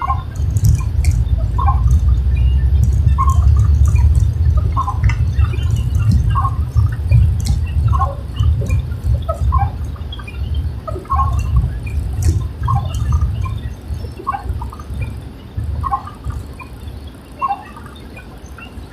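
A car driving in the rain: a steady low road rumble, scattered raindrop ticks, and windscreen wipers squeaking about every one and a half seconds.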